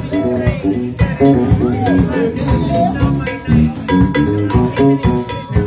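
Live rock band playing: electric guitar, bass guitar and drum kit in a steady beat, with a few gliding, bent-sounding notes.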